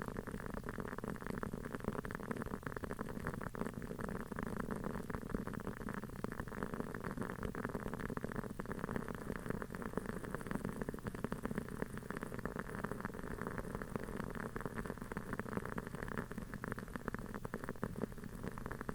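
Large wooden-wick aroma candle burning with a dense, continuous crackle like a small campfire.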